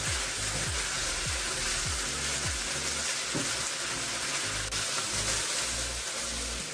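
Diced chicken breast sizzling steadily as it fries in a non-stick frying pan, at the stage where it is browning to golden.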